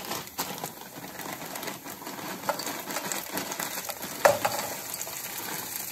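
Onion, chilies and ginger sizzling in hot oil in a saucepan, with scattered small clicks. About four seconds in, a sharp clatter sounds as frozen stir-fry vegetables are tipped from the bag into the hot pan.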